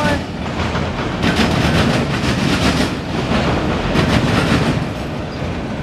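Freight train of autorack cars rolling past, its wheels clattering over the rail joints in a repeating rhythm about every second and a half.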